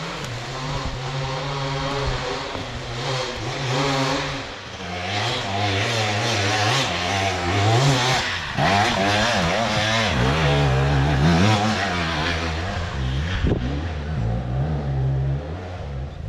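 Dirt bike engines revving, the pitch climbing and dropping repeatedly as the throttle opens and closes, loudest about halfway through.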